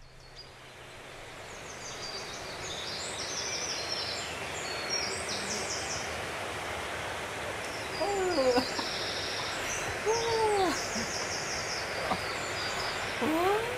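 Outdoor nature ambience fading in: a steady hiss with small birds chirping in quick repeated trills. In the second half come a few lower bird calls, each arching up and down in pitch.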